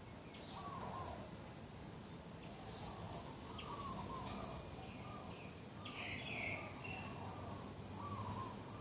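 Birds calling: doves cooing in repeated low phrases, with other small birds giving short, higher chirps.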